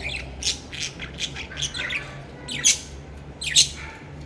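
Small pet parrots squawking: a run of short, harsh calls a few times a second, the loudest about two-thirds and three-quarters of the way through.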